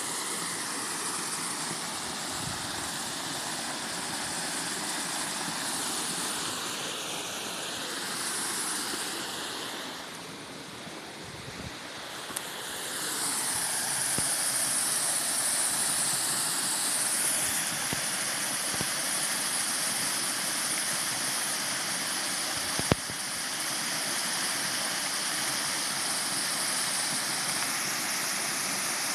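Small waterfall running low on water: a steady rush of falling and splashing water, dipping briefly about a third of the way in and then growing louder. A single sharp click near the end.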